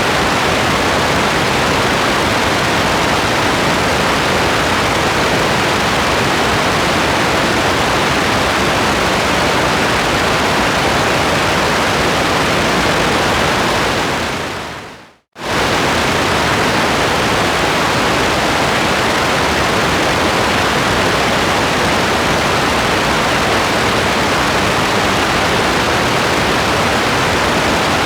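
Steady rain ambience, an even hiss. About halfway through it fades away over a second or so to silence, then comes back suddenly at full level.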